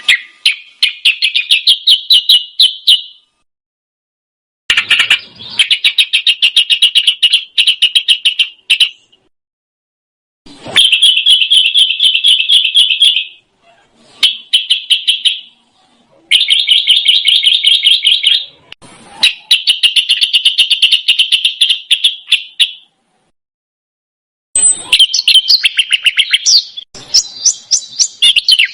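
Recorded songbird song made of tight, rapid high-pitched trills (a "roll rapat"), in phrases of two to four seconds separated by short pauses, with a more varied, warbling phrase near the end.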